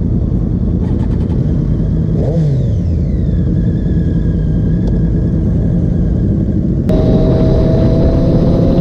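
Triumph Daytona 675R's inline three-cylinder engine running under way with wind rushing over the microphone. The revs fall about two seconds in. About seven seconds in the sound changes suddenly to a steadier, higher engine note.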